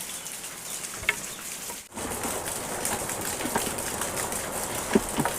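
Steady heavy rain falling, with a few brief chirps over it. The sound breaks off for a moment about two seconds in.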